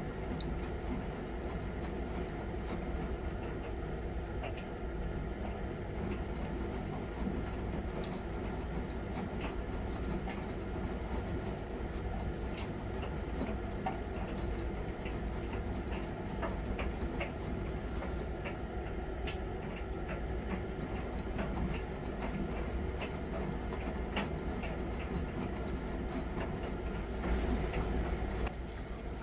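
Miele Novotronic W921 washing machine running its wash cycle: a steady rumble with scattered light clicks. Near the end comes a brief, louder rushing hiss.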